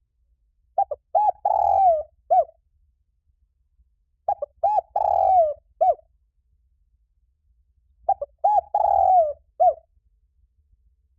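Spotted dove singing its cooing song: three phrases, each of two or three short coos, a longer drawn-out coo, and a short closing coo, with pauses of about two seconds between.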